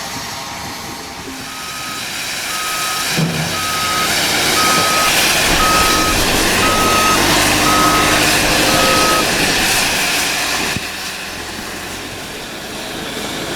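A vehicle's reversing alarm beeping about once a second, eight steady single-tone beeps, over a loud rushing noise that drops away suddenly near the end.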